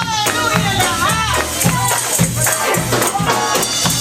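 Congregational gospel praise music: voices singing and shouting over many rapid shaken-jingle strokes typical of tambourines, with a bass line underneath.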